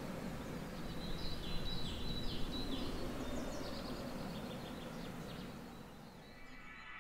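Bird chirping: a quick run of short, high, falling chirps over a steady background hiss, thinning out and fading away toward the end.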